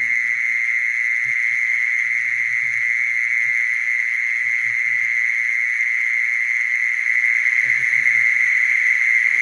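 Mole cricket singing: a continuous, steady, high-pitched trill that never breaks, growing slightly louder about seven seconds in.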